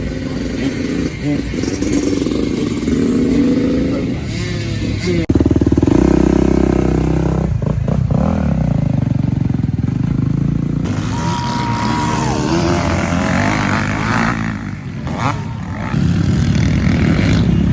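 Motocross dirt bike engines revving and running on the track, the engine pitch rising and falling repeatedly.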